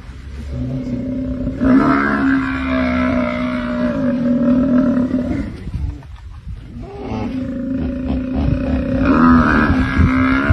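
A Cape buffalo calf bellowing in distress while being attacked: two long, drawn-out calls of about four seconds each, the second starting about seven seconds in, with rougher animal noise between them.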